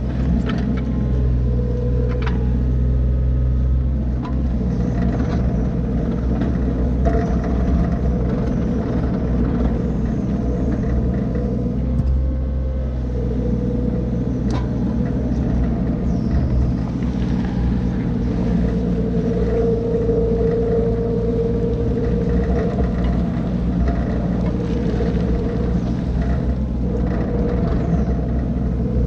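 John Deere 35D mini excavator's diesel engine running steadily under work, with a higher hum that swells and fades. A few sharp knocks come through, near the start and around the middle.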